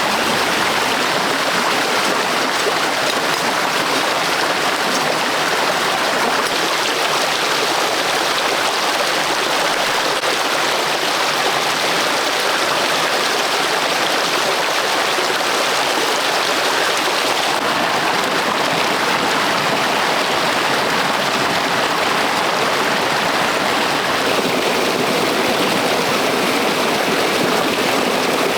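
Running water, rushing steadily and evenly with no breaks.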